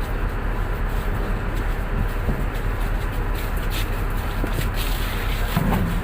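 Tugboat's diesel engine running steadily, a deep, even drone with a noisy wash over it; a brief low sound stands out near the end.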